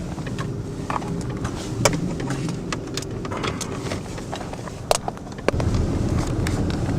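Car cabin noise while driving in a blizzard: a steady low road and engine rumble with scattered sharp clicks and ticks. The rumble grows louder about five and a half seconds in.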